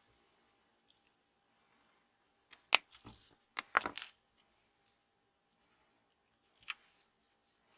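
Sharp clicks and taps of small hard objects being handled on a work surface: one loud click about three seconds in, a quick cluster of taps a second later, and one more near the end.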